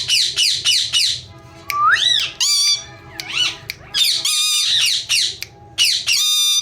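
Indian ringneck parakeet giving a string of loud, shrill squawks and screeches, about five or six calls that bend up and down in pitch.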